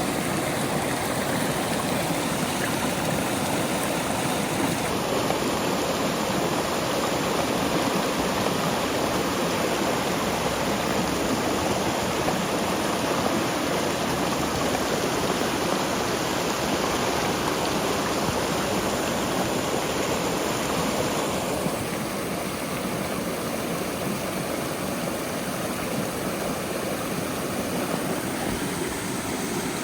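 River water flowing with a steady rushing sound. It changes character about five seconds in and turns slightly quieter about twenty-one seconds in.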